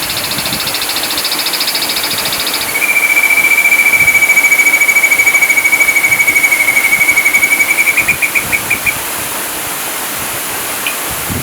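Ashy drongo singing rapid trills ('tembakan'). A fast high trill gives way about three seconds in to a louder, lower rapid trill, which slows into separate notes and stops about eight to nine seconds in. A few short chips follow near the end.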